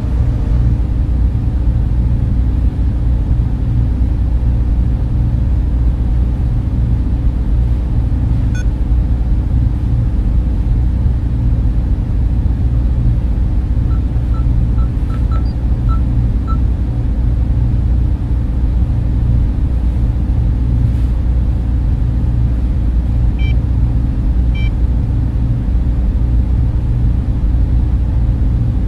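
Server room cooling fans running with a steady low hum and rush. A few faint short blips come through now and then.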